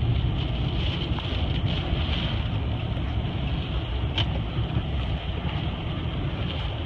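Gale-force storm wind and a car driving through it: a steady low rumble with a hiss over it.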